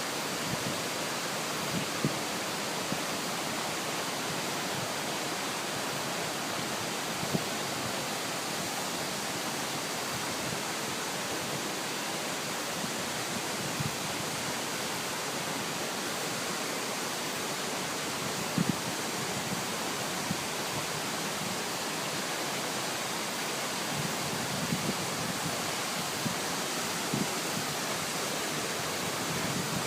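Waterfall pouring, a steady rushing of falling water, with a few brief low thumps over it.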